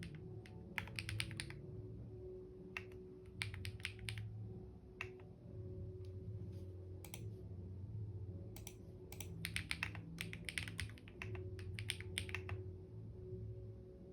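Typing on a computer keyboard: bursts of rapid key clicks separated by short pauses, over a low steady background tone.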